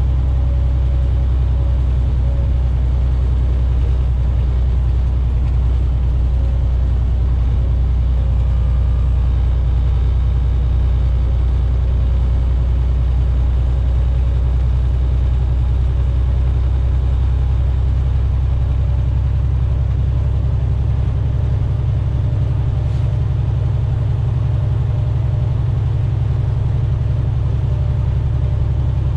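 Semi truck's engine and tyres droning steadily inside the cab at a steady highway cruise.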